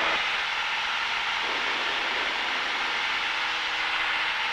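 Cessna 172's engine and propeller droning steadily at climb power, heard from inside the cabin.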